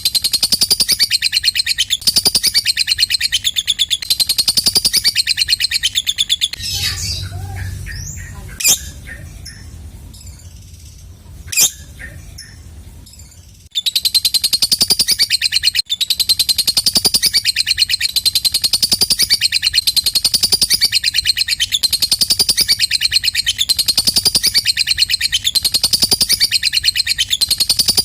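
Lovebird giving its long 'ngekek' chatter: a fast, continuous high trill that rises and falls about once a second. Partway through it breaks off into a quieter stretch with two short sharp calls, then the chatter starts again and runs on.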